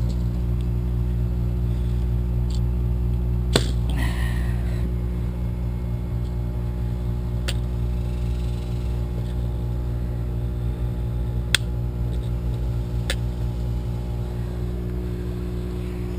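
A steady low mechanical hum, several even tones stacked together, with a few sharp clicks and a short rattle of handling about three and a half seconds in.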